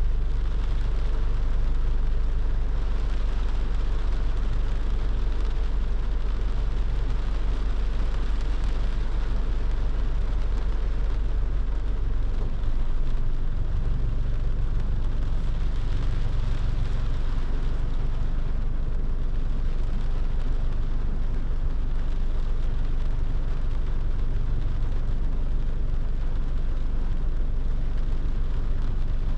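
A car driving in the rain: a steady low rumble of engine and road under an even hiss of rain and wet tyres.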